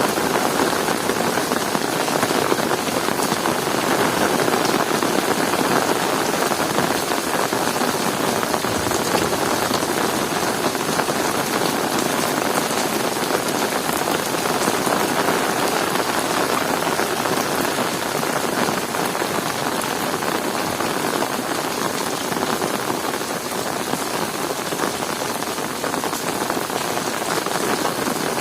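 Heavy rain falling steadily: a dense, even hiss and patter of drops on surfaces.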